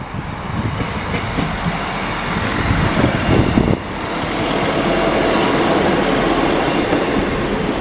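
A Class 150 Sprinter diesel multiple unit passing at close range: engine and wheels on the rails. The sound grows louder through the first few seconds and is loudest and steady from about four seconds in, as the cars go by.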